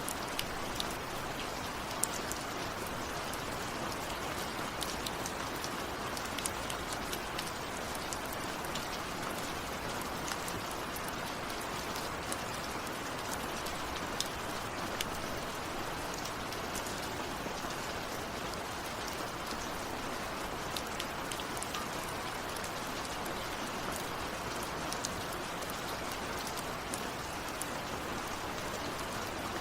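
Steady rain falling, an even hiss with many individual drops ticking sharply on a surface. No thunder is heard.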